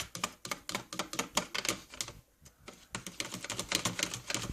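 Matcha powder being whisked into water in a bowl: the utensil clicks and rattles against the bowl's sides many times a second, with a short pause about two seconds in.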